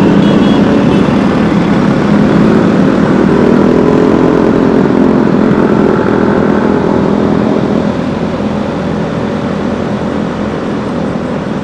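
A motor vehicle's engine running, with steady road noise, loud throughout and easing off a little about eight seconds in.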